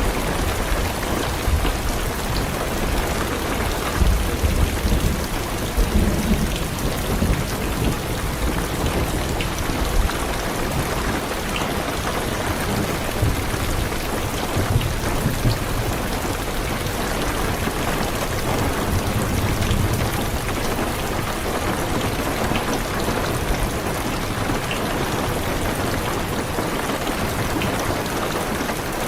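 Heavy rain drumming steadily on a car's roof and windows, heard from inside the car, with low thunder rumbling in the background, swelling a few seconds in and again about two-thirds of the way through.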